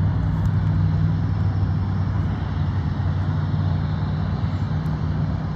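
A steady low engine drone with a few held tones.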